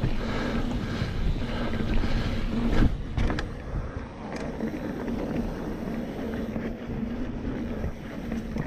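Mountain bike riding over a dirt trail: tyres rolling and the bike rattling under wind noise on the camera's microphone, with a few sharp knocks about three seconds in.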